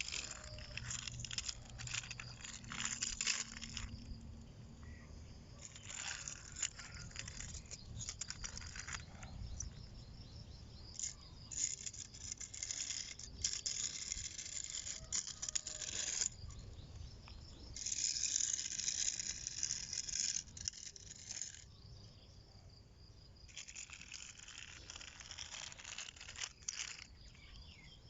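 Steel toy construction vehicles being pushed over the ground, rattling and scraping in bursts of one to a few seconds with short pauses between.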